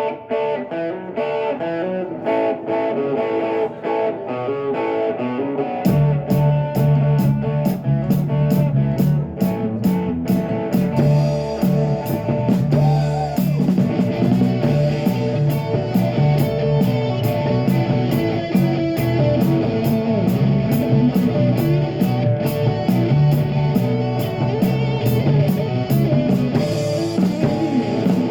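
Live rock band playing an instrumental passage: an electric guitar plays a riff alone, then drums and bass guitar come in about six seconds in and the full band plays on at a steady beat, with no singing.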